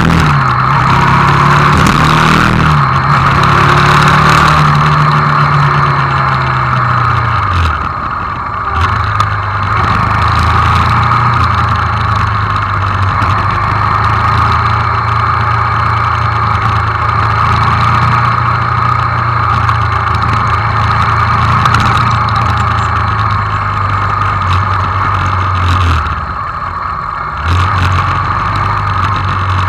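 Hyosung GD250N motorcycle's single-cylinder engine running at low city speed, its pitch rising and falling with the throttle. It drops out briefly twice, about eight seconds in and again near the end, as the rider shifts gears.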